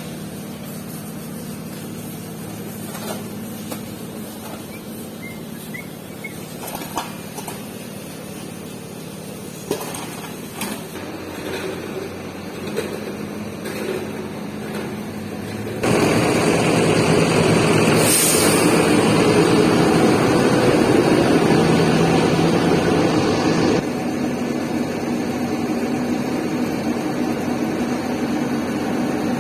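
A vehicle engine running steadily with scattered knocks. From about halfway a much louder, steady rushing noise sets in abruptly, easing off suddenly near the end.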